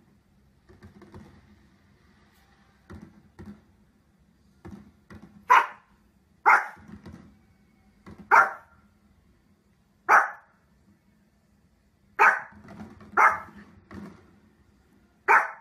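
A small long-haired dog barking: a few soft woofs first, then about seven loud, sharp single barks spaced one to two seconds apart.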